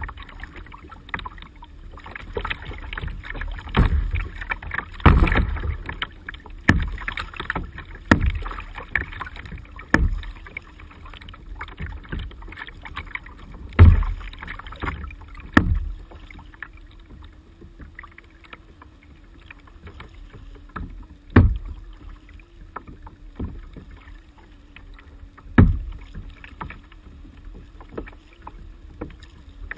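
Paddle strokes splashing in the water as a fishing kayak is paddled standing up. The strokes come every one to two seconds at first, then only a few seconds apart.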